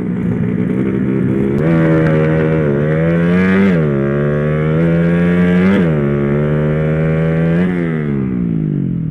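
Motorcycle engine pulling hard through the gears: the pitch climbs, drops sharply at each of two gear changes, climbs again, then falls as the throttle eases off near the end.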